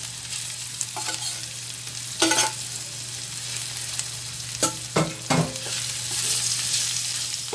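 Raw ground pork, garlic and onion sizzling in oil in a hot wok while a metal spatula stirs and scrapes through the meat. A few sharp clanks of the spatula against the pan stand out, one a little over two seconds in and three close together around five seconds in.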